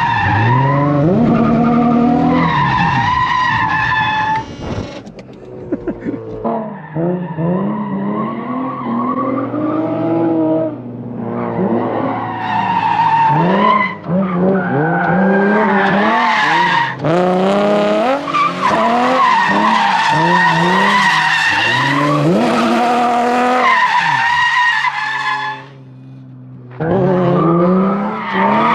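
Turbocharged Nissan VQ V6 drift car revving hard, its pitch climbing and falling again and again with throttle and shifts, over tire screech as the car slides. Twice the engine drops briefly to a steady idle: about five seconds in and near the end.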